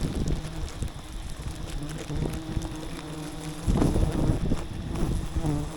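Bees buzzing in a steady hum around a wild forest hive. A louder rush of noise comes in a little before four seconds in.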